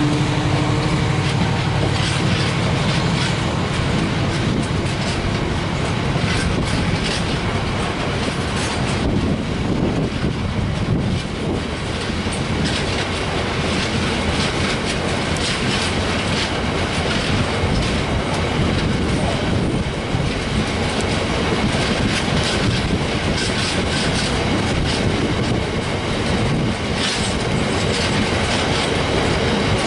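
Freight train of open box wagons rolling slowly past, the wheels clattering over the rail joints in a continuous rattle, with some squeal from the wheels. A low engine drone from the Class 70 diesel locomotive hauling it fades out in the first two seconds.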